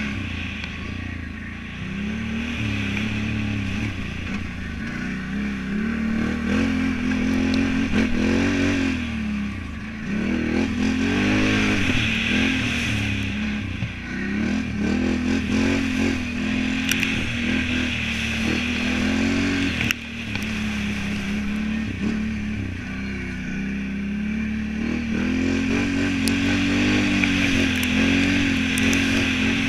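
Can-Am Renegade 1000 ATV's V-twin engine revving up and down as it is ridden, its pitch rising and falling every couple of seconds as the throttle is opened and closed. A few sharp clicks are heard.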